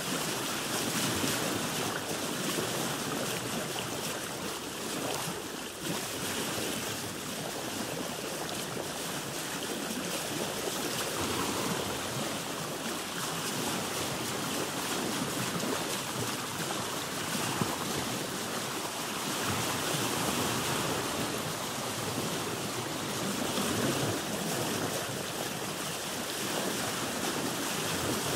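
Sea water washing and splashing against a boat's hull, a steady rushing with slow rises and falls in loudness.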